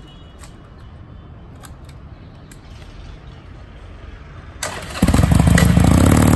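A few faint clicks, then the Harley-Davidson Iron 883's air-cooled V-twin is cranked by its electric starter and catches about five seconds in, running loud with a steady pulsing beat.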